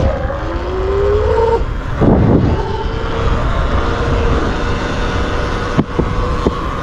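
Sur-Ron electric dirt bike's motor whining, rising in pitch as the bike speeds up and then holding a steady pitch, over a constant low wind rumble on the microphone. A brief loud gust comes about two seconds in, and a few sharp clicks near the end.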